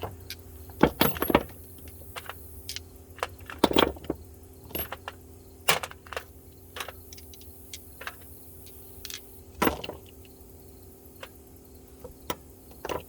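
Metal sockets clinking and clattering against each other as they are picked up and set down, in irregular sharp clicks with a few louder clatters.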